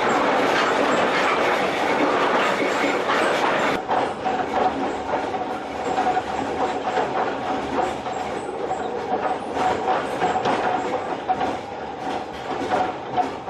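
Vietnam Railways train running on the track, its wheels clattering over the rail joints. About four seconds in the rushing noise drops, leaving irregular clacks with a steady whine from the wheels.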